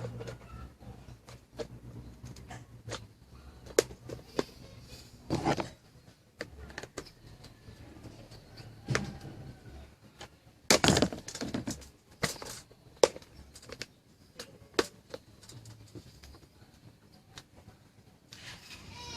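Irregular clicks, knocks and clatter of small hard parts being handled, with a few louder clattering bursts.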